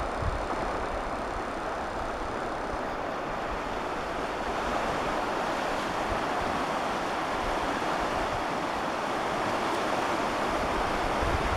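Creek in flood, above flood stage, giving a steady rush of fast-moving water. Wind buffets the microphone with low thumps near the start and near the end.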